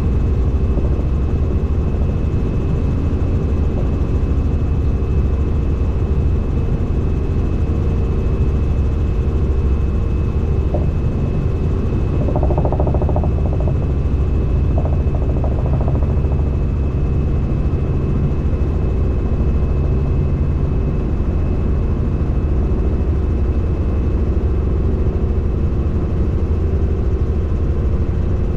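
Helicopter in flight: a steady, unbroken drone of rotor and turbine engine, with a constant high whine over it.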